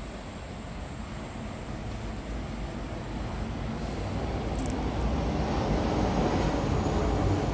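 Steady low vehicle rumble that grows steadily louder.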